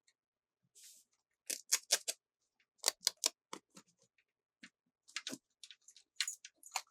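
Irregular series of sharp clicks and taps, toy pieces and packaging being handled, with a brief soft hiss just under a second in.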